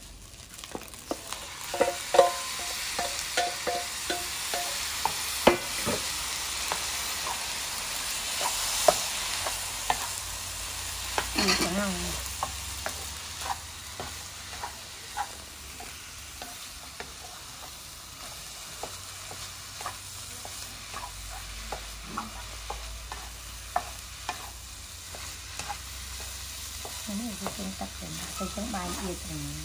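Fried rice sizzling in a nonstick wok on a portable gas burner while a wooden spatula stirs and scrapes it, with many sharp clicks of the spatula on the pan. The sizzling is loudest in the first half.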